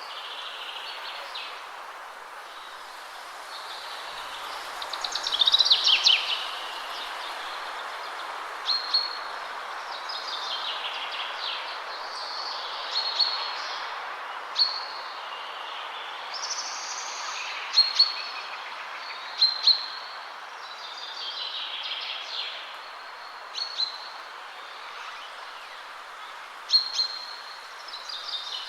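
Steady wind rushing through the trees, with several songbirds singing and calling over it: short high calls repeating throughout, and a louder song about five seconds in.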